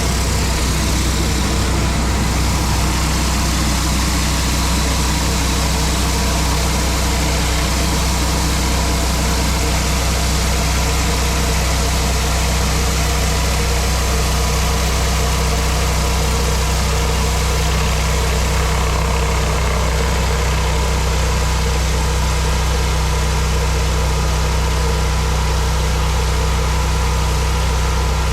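Pressure washer's engine running at a steady speed, with a constant hiss over it.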